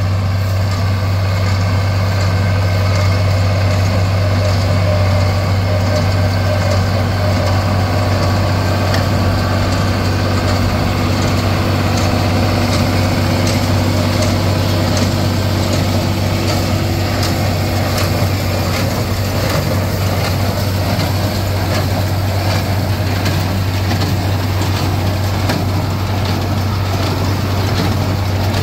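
Farm tractor engine running steadily while a square baler works hay, with a light regular clatter about twice a second over the engine.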